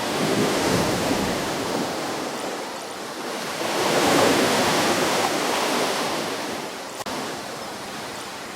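Ocean waves breaking and washing up a shore: one wave swells at the start, a bigger one peaks around four seconds in, and the surf eases off toward the end. A brief click with a dip in level comes about seven seconds in.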